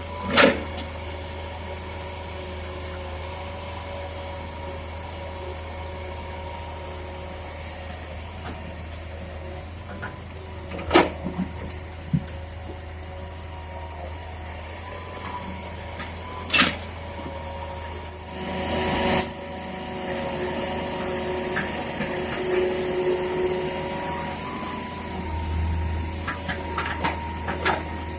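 Excavator's diesel engine running steadily, with a low drone and a steady whine, broken by a few sharp knocks and a short hiss about two-thirds of the way through.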